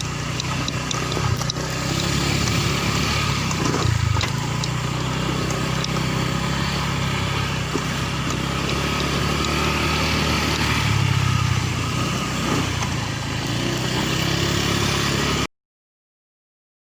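Motorcycle engine running while riding along a rough road. The sound cuts off suddenly near the end, leaving silence.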